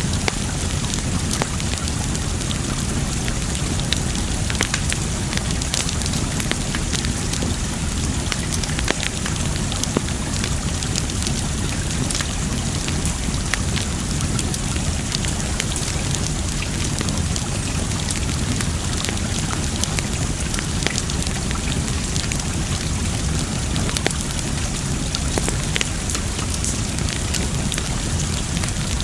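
Wood fire crackling, with many sharp irregular pops and snaps over a steady wash of water sound.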